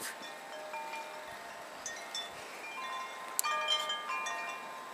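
Wind chimes ringing, many overlapping tones at different pitches struck at random and ringing on, with one sharp click about three and a half seconds in.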